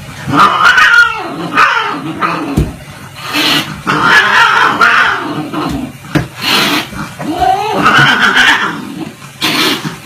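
Cats yowling: several long, wavering yowls in a row, with short noisy bursts between them.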